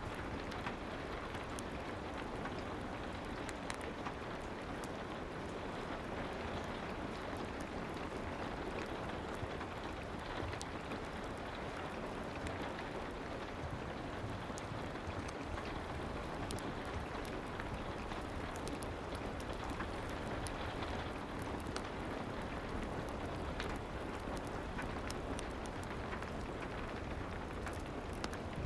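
Steady soft rain mixed with a crackling fireplace: an even hiss sprinkled with many small, sharp ticks.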